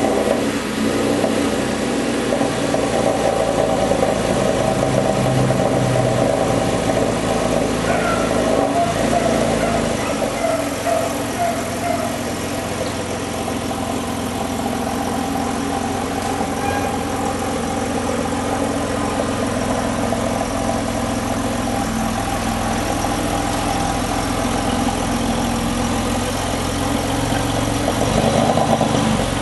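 Porsche 997 Carrera S flat-six idling just after starting, on its exhaust. The idle runs high and louder at first, then settles lower and steadier about ten seconds in.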